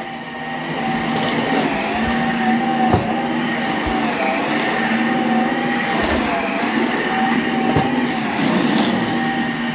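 Dyson V15s Detect Submarine wet roller head running as it mops a hard floor: a steady motor whine from the head turning its wet roller and pumping water onto it, with no suction. The pitch wobbles slightly a few times as the head is pushed along.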